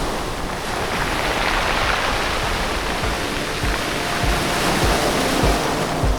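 Sea surf washing steadily on the beach, under background music whose low beat comes in about halfway through.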